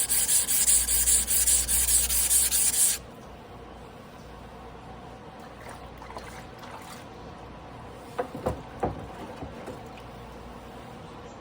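Damascus carbon-steel sashimi knife being ground by hand on a whetstone: quick, even back-and-forth rasping strokes that stop abruptly about three seconds in. A few light knocks follow a little past the middle.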